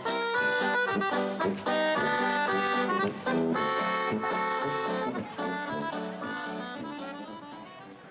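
Accordion playing a tune with held chords, dying away over the last few seconds.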